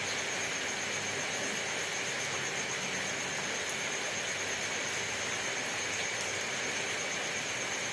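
Steady rainfall, an even hiss with no single drops standing out, and a thin high steady tone over it.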